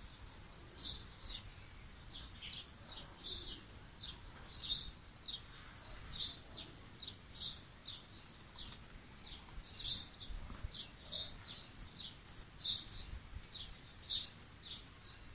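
Songbirds chirping: a faint, steady run of short high chirps, some in quick pairs.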